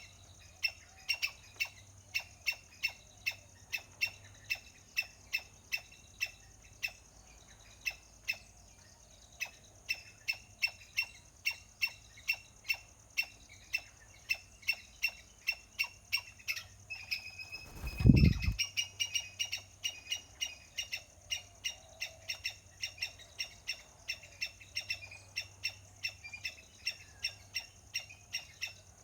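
A small animal's sharp chirp, repeated steadily about twice a second, with a short pause about a third of the way through. A loud dull thump comes a little past the middle.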